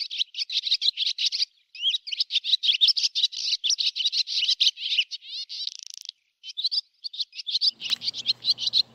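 Birds twittering: a dense run of quick, high chirps, broken by brief pauses about one and a half seconds in and again about six seconds in.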